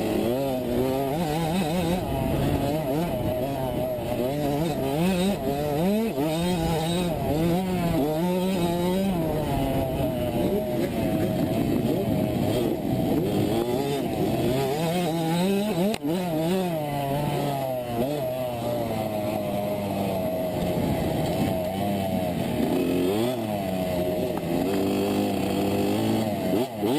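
65cc two-stroke motocross bike engine revving hard, its pitch climbing and dropping over and over as the throttle is opened and backed off.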